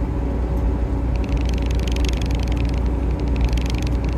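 Semi truck cab interior while driving: a steady low engine and road drone.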